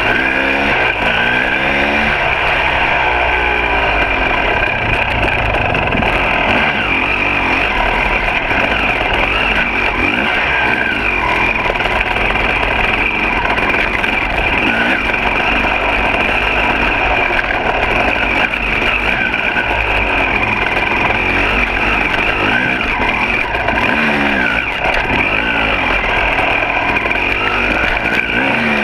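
Two-stroke dirt bike engine revving up and down over and over while being ridden, its pitch rising and falling with the throttle over a steady rushing background.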